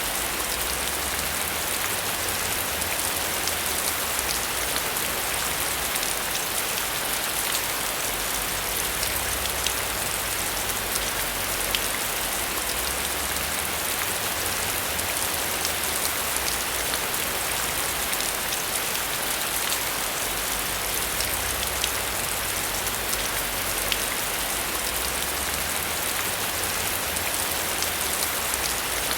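Heavy rain falling steadily, a dense even hiss with scattered sharp drop ticks, over a low rumble that swells and fades every few seconds.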